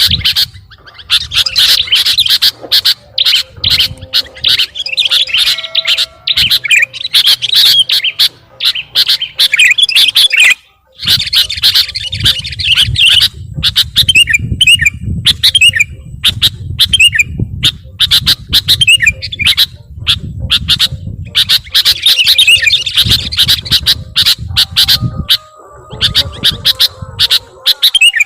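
Nestling birds' shrill begging chirps, rapid and dense, as the chicks are fed, with a low rumble underneath and a brief pause about eleven seconds in.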